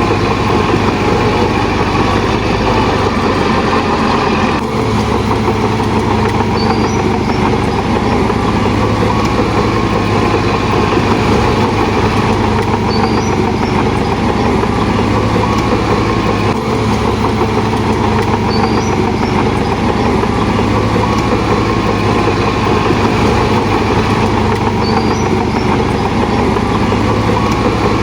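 Heavy diesel engine of a Shantui DH17 bulldozer running steadily under a continuous low drone, with two brief momentary dips.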